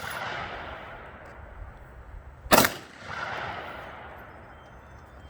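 A single AR-15 rifle shot about two and a half seconds in, followed by a long rolling echo. The echo of a shot fired just before is dying away at the start.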